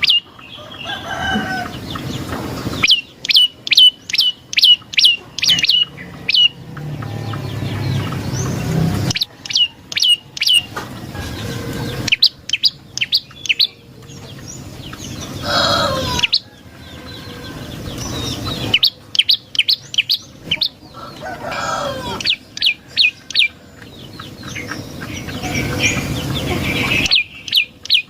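Recorded prenjak lumut prinia calls: trains of sharp, high chirps, about two a second. These alternate with stretches of a rougher, buzzier call that builds in loudness before the chirps resume.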